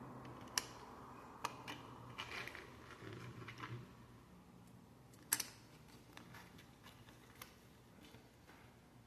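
Plastic Lego pieces being handled and clicked together: a few sharp, faint clicks, the loudest about five seconds in, with some light rustling in between.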